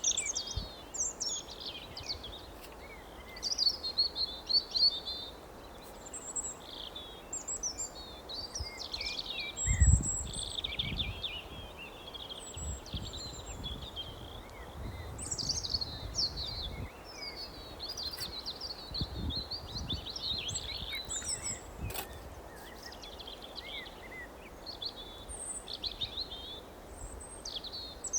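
Small songbirds chirping and twittering continually in quick, overlapping calls. A brief low rumble comes about ten seconds in.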